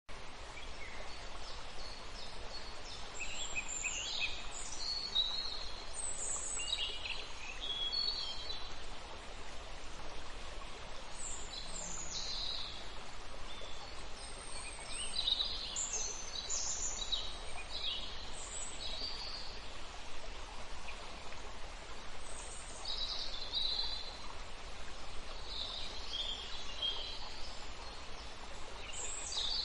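Birds chirping with short, high, gliding calls scattered throughout, over a steady background hiss.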